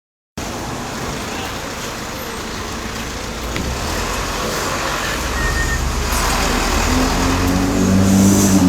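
A car on the move: steady road and engine noise with a low rumble that grows gradually louder, and a voice coming in near the end.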